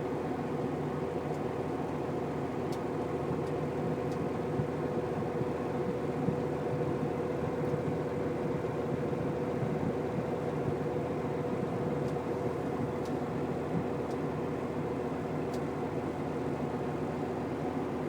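Idling truck engine, a steady low hum with a constant mid-pitched tone, and a few faint ticks.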